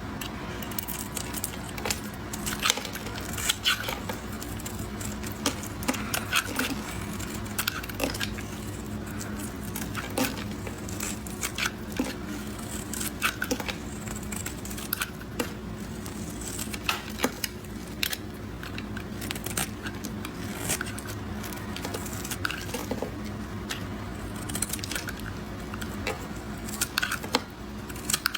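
Knife cutting through soap cubes: a string of crisp cracks and crunches at irregular intervals, about one or two a second, over a steady low hum.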